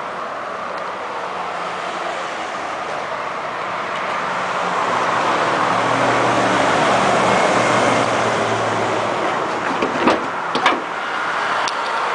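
Road traffic going by, swelling to its loudest about six to eight seconds in, with two sharp knocks near the end.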